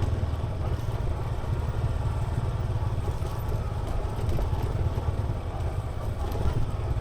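Yamaha XSR 155's single-cylinder engine and exhaust running while the bike is ridden, a steady low rumble throughout.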